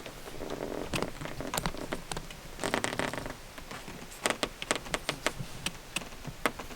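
Irregular light clicks and crackling of a cat's paws and claws moving on greenhouse plastic roof sheeting.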